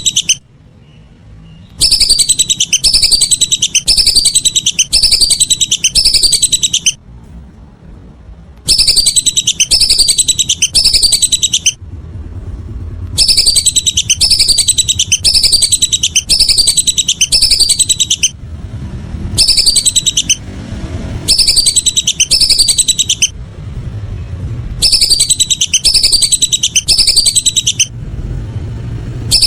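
Whistling duck (belibis) calls: a run of high, descending whistles at a steady pace, breaking off in short pauses about every four or five seconds and starting again.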